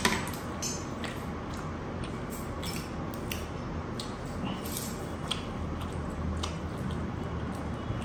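Close-up chewing and mouth sounds of a person eating rice and chicken by hand, with many irregular wet clicks and smacks.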